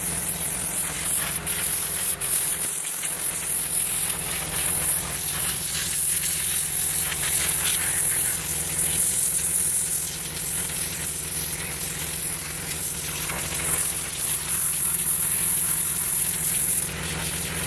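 Gas-engine pressure washer running steadily, its engine droning under the loud hiss of the high-pressure water jet spraying from the wand.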